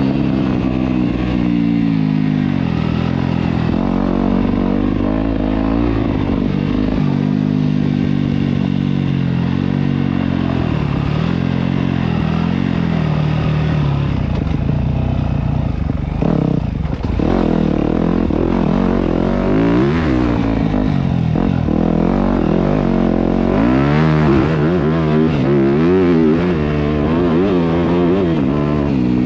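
Yamaha YZ250F four-stroke single-cylinder dirt bike engine being ridden hard, its revs rising and falling over and over as the rider works the throttle and gears.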